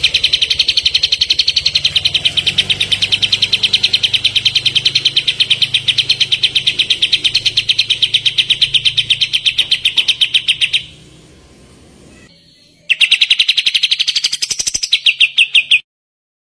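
Songbird giving a rapid-fire 'tembakan' song used for bird-training recordings: a fast, even string of sharp high notes, several a second, which stops for about two seconds, resumes, and cuts off suddenly near the end.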